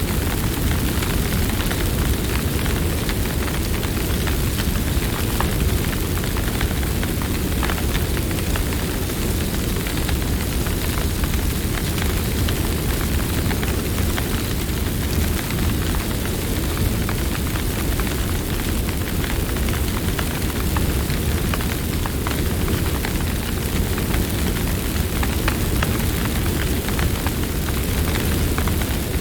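Campfire burning: a steady low rumble of flames with many small crackles and pops.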